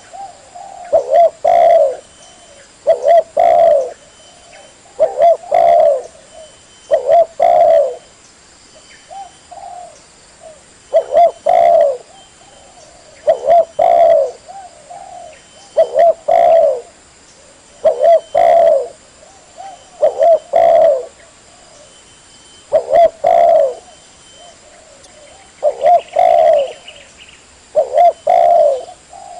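Spotted dove (tekukur) cooing: a loud, low coo phrase of several notes repeated about every two seconds, with a few softer single coos between phrases.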